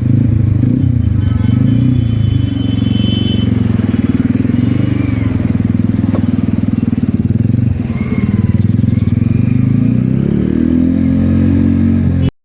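Kawasaki Ninja ZX-10R's inline-four engine running steadily at low revs while riding, its pitch rising near the end as the throttle opens.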